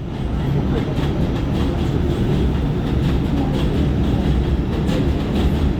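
An R46 subway car running along the track, heard from inside: a steady rumble of motors and wheels, growing a little louder in the first second, with faint clicks of wheels over rail joints.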